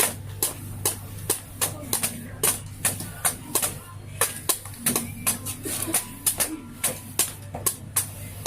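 Sharp clicks or taps repeating about three times a second at a fairly even pace, over a steady low hum.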